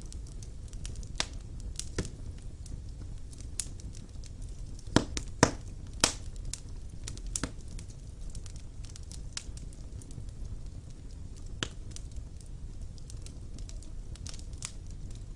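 Wood fire burning in a fireplace: a low steady rumble of flames with irregular sharp crackles and pops from the burning logs, the loudest a cluster about five to six seconds in.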